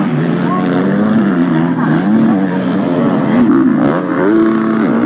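250cc four-stroke MX2 motocross bikes racing on the track, more than one engine heard at once, revving up and down repeatedly as the throttles open and close.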